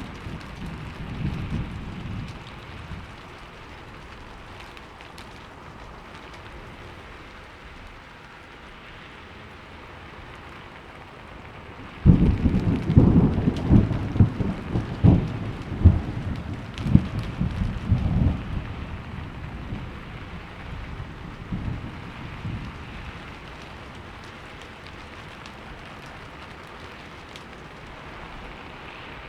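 Steady rain falling, with a thunderclap that breaks suddenly about twelve seconds in and rumbles and crackles for several seconds before fading. A fading low rumble of earlier thunder comes at the start.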